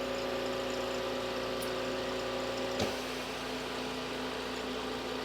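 A steady mechanical hum with several even tones, and a single sharp click about three seconds in.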